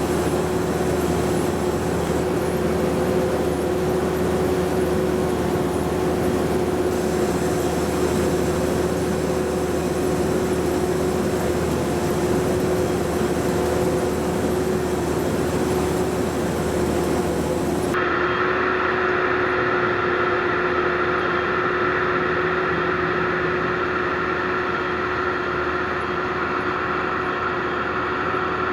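Rice combine harvester running steadily under working load, its engine and threshing machinery making a constant mechanical hum. About two-thirds of the way through the sound turns abruptly duller, with a higher whine coming up.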